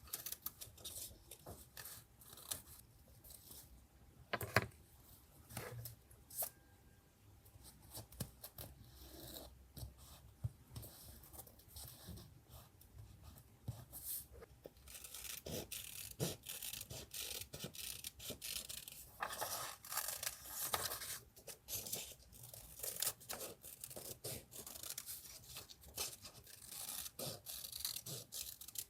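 Paper and stationery being handled for a collage journal page: rustling, tearing and rubbing of paper with many small taps. There are longer stretches of scratchy rubbing about halfway through and near the end.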